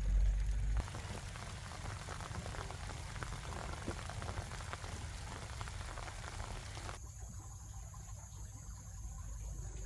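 Garden watering: water pattering and splashing onto plants and soil as a dense hiss of small drops, which stops abruptly about seven seconds in.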